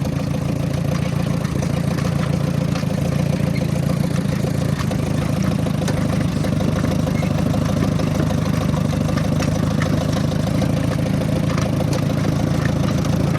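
Ford N-series tractor's four-cylinder engine running steadily at low speed while the half-tracked tractor creeps along, with occasional light clicks. The tractor is limping on a track held together with wire after a track bolt broke.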